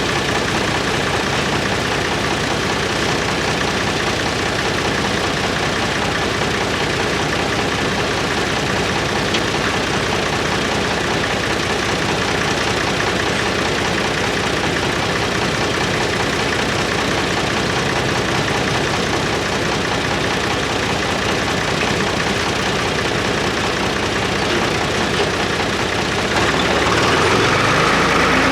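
An engine idling steadily, growing a little louder near the end.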